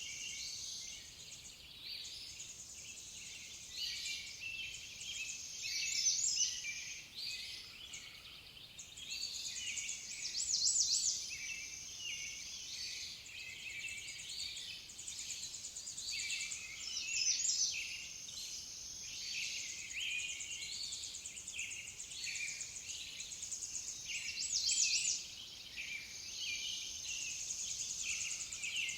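Several songbirds chirping and singing over a steady high trill, with a louder rapid trill every few seconds.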